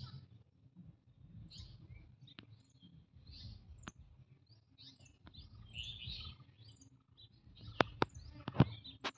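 Small birds chirping over and over in short, high notes, over a low background rumble. A few sharp clicks sound near the end and are the loudest thing in it.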